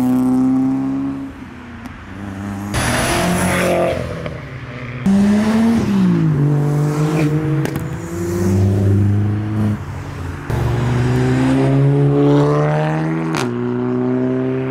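Modified cars' engines revving and accelerating away one after another, the pitch climbing and dropping with the throttle, the sound changing abruptly several times from one car to the next.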